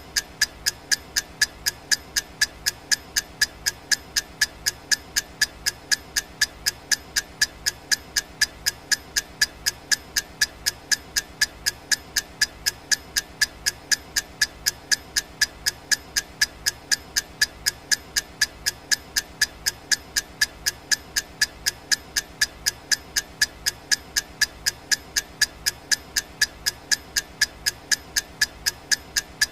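Clock ticking sound effect: sharp, even ticks at a steady pace of about two a second over a faint hiss.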